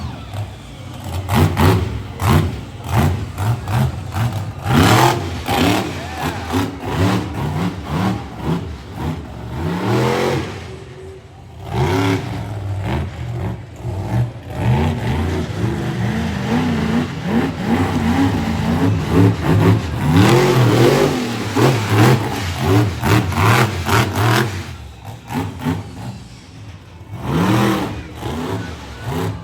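Dragon Slayer monster truck's engine revving hard over and over, pitch climbing and falling with each throttle stab, easing off briefly about eleven seconds in and again near the end.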